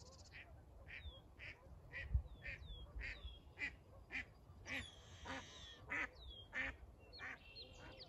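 Birds calling: one call repeated about twice a second, with short downward-sliding chirps from a smaller bird among them. A single low thump about two seconds in.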